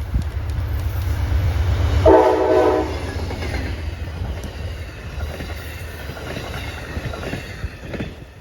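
Amtrak GE P42DC diesel locomotive passing with a heavy engine rumble, sounding one short horn blast about two seconds in. Its train follows with wheels clicking over the rail joints, fading near the end.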